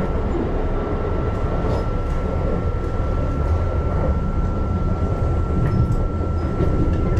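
Keihan Line commuter train running, heard from inside the car: a steady low rumble with a constant thin high tone over it and a few faint ticks.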